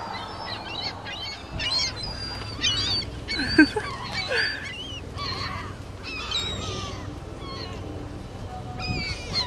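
A large flock of birds swarming for bread, calling over one another in many short, high, squealing calls.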